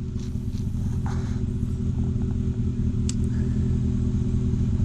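Side-by-side UTV engine running steadily, growing gradually louder, with one brief sharp tick about three seconds in.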